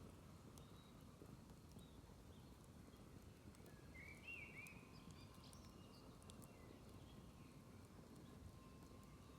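Near-silent outdoor ambience beside a smouldering, smoky campfire, with a few faint scattered crackles over a low steady rumble. A bird chirps briefly about four seconds in.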